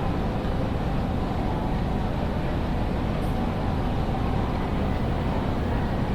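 Steady ambient noise inside a large railway station building: an even low rumble and hum with no distinct events.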